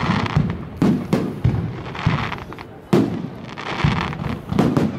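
Fireworks display: a string of sharp shell bursts about every half second to second, each with a rumbling tail, and crackling effects sparkling between the bangs.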